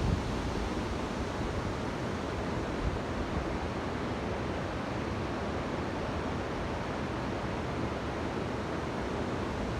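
Waterfall rushing with a steady, even roar of falling water, with a few low rumbles of wind on the microphone at the start.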